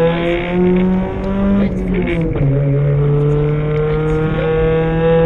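VW Golf 3 rally car's engine heard from inside the cabin, accelerating hard. The pitch climbs, drops at a gear change about two seconds in, then climbs steadily again in the next gear.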